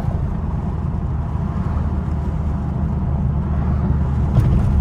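Chrysler 300's straight-piped Hemi V8 running while driving, a deep steady exhaust note heard from inside the car. A short click comes near the end.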